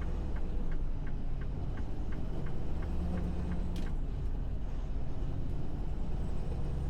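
Truck's engine running steadily with a low rumble, while the turn-signal indicator ticks evenly about three times a second and then stops about three seconds in. A single sharp click follows near four seconds in.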